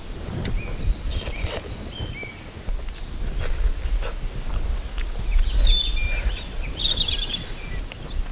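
Close-up eating sounds of biting, chewing and lip-smacking on grilled food, with scattered sharp clicks. Small birds chirp and twitter in the background over a low rumble.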